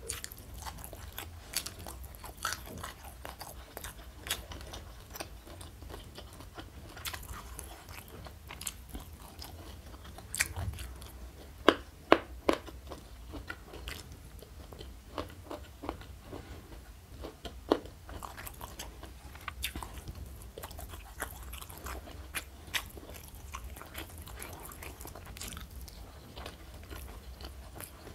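Close-miked eating: a person chewing and biting crunchy food, with wet mouth sounds and many small crackles. A few louder crunches come in a cluster about twelve seconds in and once more near eighteen seconds.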